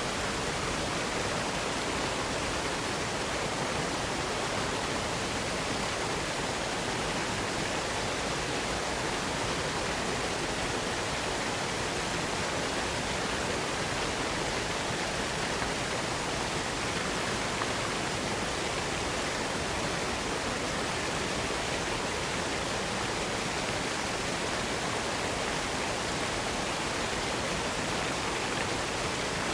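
Waterfall rushing steadily, an even unbroken water noise with no changes.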